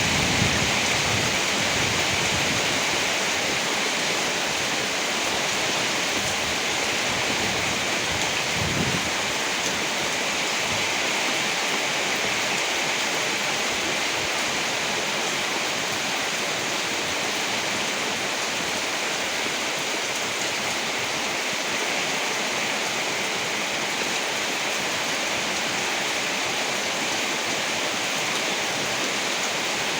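Heavy rain falling steadily in a dense, even hiss. A low rumble of thunder dies away at the start, and a short low rumble comes about nine seconds in.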